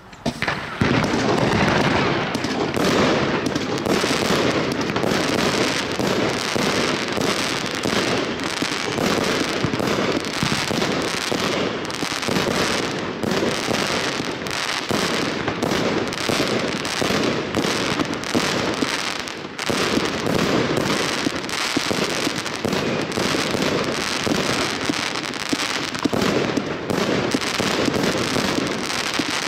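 Large firework cake (Evolution Snowstorm battery) firing: a dense, unbroken barrage of rapid shots and bursts that starts about half a second in.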